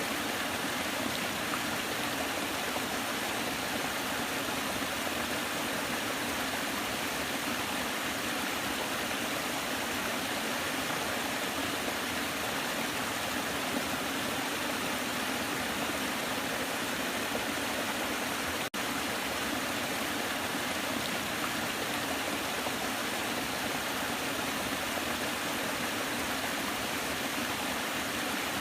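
Waterfall: a steady, even rush of falling water, broken once by a split-second gap about two-thirds of the way through.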